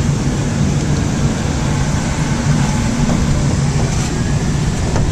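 Tour bus running through city streets, heard from on board: a steady low engine hum under road noise.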